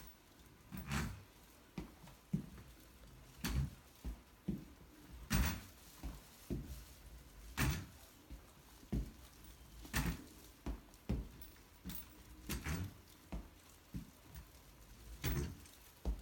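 A series of irregular knocks and thumps, roughly one a second, some louder than others, in a small room.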